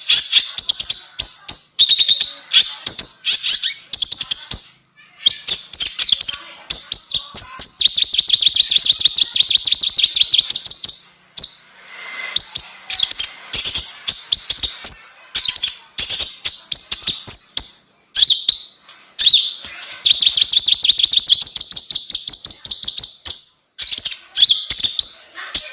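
A konin (kolibri ninja) sunbird singing in full song: loud, very rapid high-pitched chattering trills in long runs, with short breaks between them.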